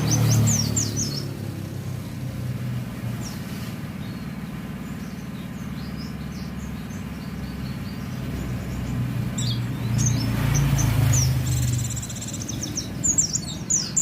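White-eye (pleci) chirping in quick high runs of song, in bursts at the start, about three seconds in, around ten seconds and again near the end. Under it runs the low rumble of road traffic, with vehicles passing loudest at the start and about ten to eleven seconds in.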